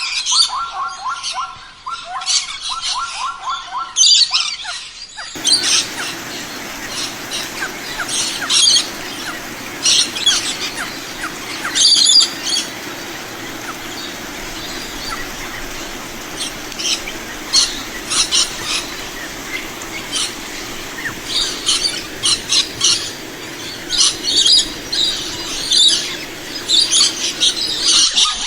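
Birds chirping and calling in short bursts. For the first five seconds there is also a quick repeated trill, then the audio changes abruptly to a steady rushing background noise under the chirps.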